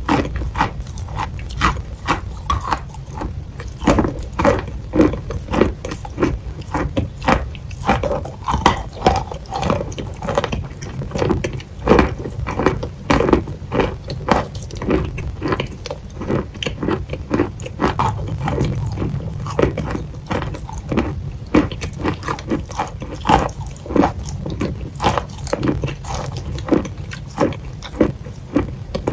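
Close-miked biting and chewing of a white chalky block: crisp crunches several times a second, over a steady low hum.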